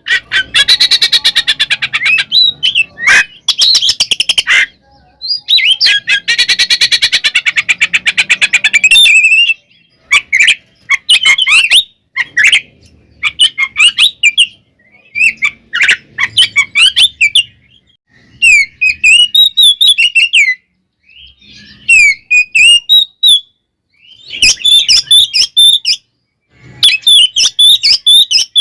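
Oriental magpie-robin (kacer) singing loudly. It opens with two long, fast, harsh chattering runs in the first nine seconds, then gives a series of short whistled phrases with brief pauses between them.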